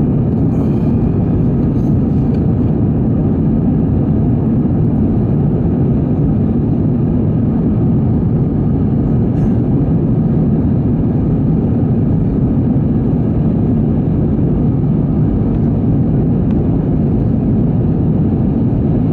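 Airbus A320 engine and airflow noise heard inside the passenger cabin during the climb after takeoff: a steady, loud, even rumble.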